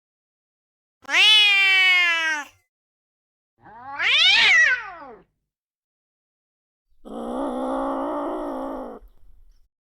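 Angry cat yowling: three separate drawn-out calls, the first slowly falling in pitch, the second rising and then falling, the third a lower, rougher call.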